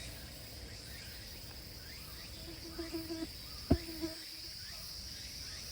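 Insects chirring steadily in a high, continuous band. About three and a half seconds in there is a single sharp click, with short low hums around it.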